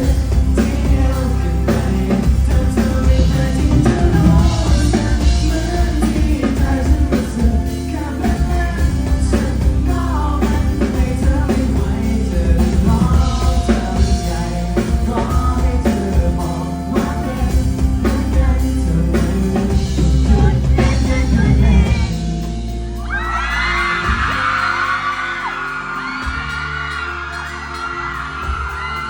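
Live pop band with a singer and a heavy bass line. About 23 seconds in the band drops back and an audience breaks into loud, high-pitched screaming and cheering over the quieter music.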